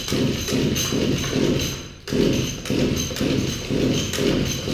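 A small 25cc two-stroke engine being pulled over by hand against its compression: a rhythmic chugging, about two to three pulses a second, with a short break about two seconds in.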